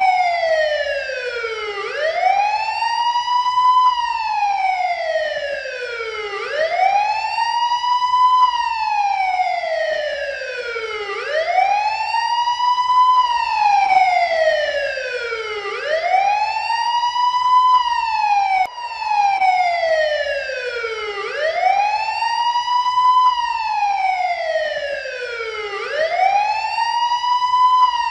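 Wailing siren: a single tone that sweeps up quickly and glides down slowly, repeating about every four and a half seconds.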